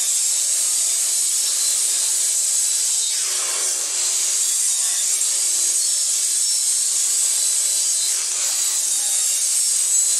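Kobalt sliding compound miter saw running with a high-pitched whine as it crosscuts a plywood strip into 6-inch pieces. The sound sags and recovers twice, about three and a half seconds in and again about eight and a half seconds in, as the blade goes through the wood.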